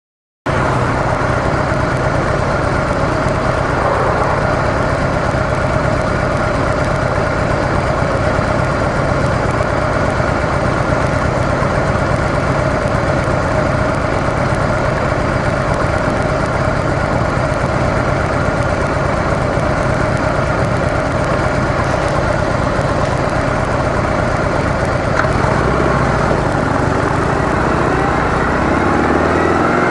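Harley-Davidson CVO Softail V-twin engine with stock mufflers running steadily, heard from the motorcycle; it comes in about half a second in after a brief silence.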